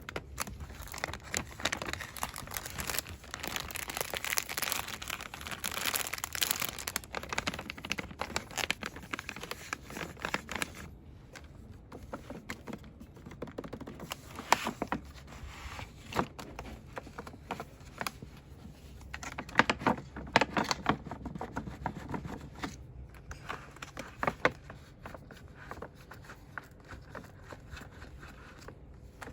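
Cosmetics packaging rustled and crinkled fast by hands close to the microphone. The crinkling is dense for the first ten seconds or so, then thins out into scattered sharp taps and crinkles.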